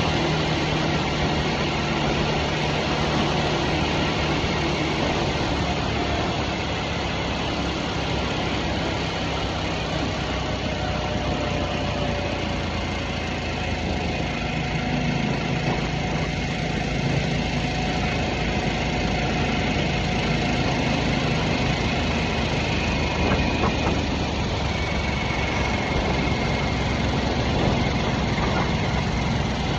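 Harley-Davidson Nightster's 975 cc Revolution Max V-twin running while the bike cruises, over steady wind and road noise. The engine eases off a little midway and picks up again.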